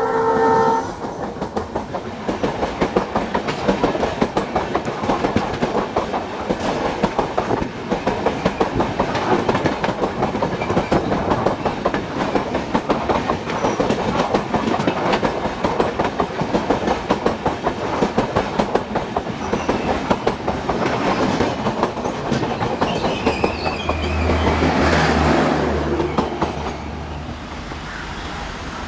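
An express train's diesel locomotive horn tails off in the first second. Then passenger coaches rush past close by, with a fast, continuous clatter of wheels over rail joints. The clatter eases near the end.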